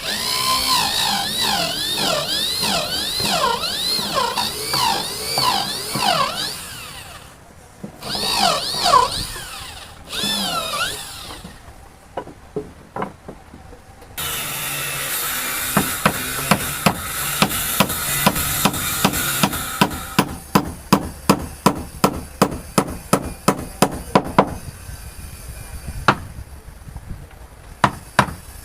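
Power tool whining, its pitch swinging up and down over and over as it bites and eases, in two spells with a short break between. Then a steadier running noise, and a long run of even hammer blows, about two or three a second, during boat-patching work.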